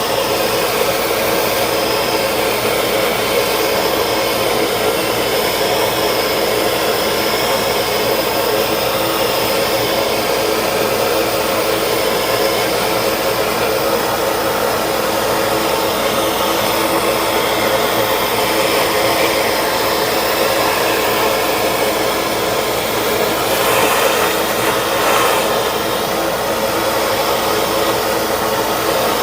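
Heat gun running steadily, blowing hot air onto a steel hammer head coated with boiled linseed oil to bake the finish on; briefly louder near the end.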